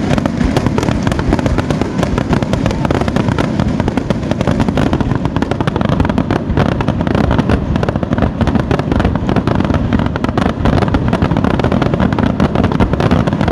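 Fireworks display in a dense, continuous barrage: many shell bursts and crackles overlapping with no pause, loud throughout.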